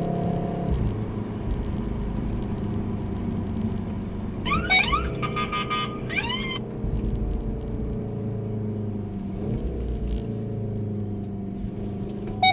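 Car cabin while driving: steady engine and road noise. A couple of short, warbling high tones swoop up and down about four and a half seconds in and again near six seconds.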